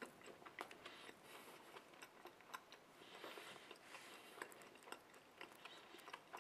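Faint close-up chewing of a mouthful of burger: scattered soft wet clicks and smacks from the mouth.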